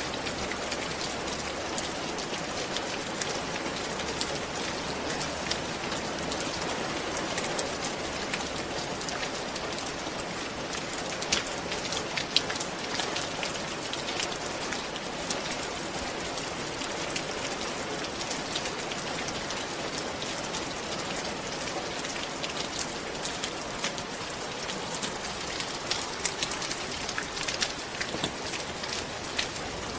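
Steady rain falling on a roof, an even hiss with many individual drops ticking sharply on the surface.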